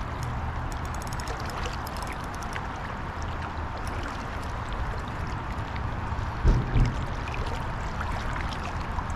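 River water rushing steadily past, with a low rumble underneath and a few low thumps about six and a half seconds in.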